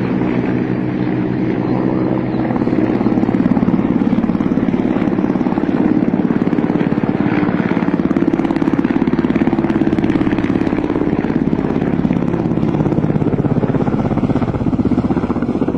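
Military helicopter flying overhead: a steady, rapid chop of the rotor blades over a low engine hum, growing a little louder a couple of seconds in.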